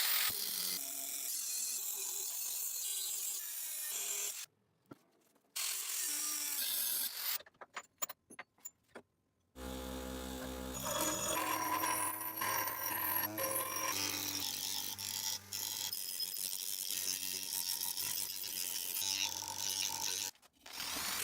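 Metalworking on a rusty steel axe head in several short cut-together clips: first rasping, scraping noise, then a few sharp clicks, then, about halfway through, a power tool starts with a low hum and runs, working the metal.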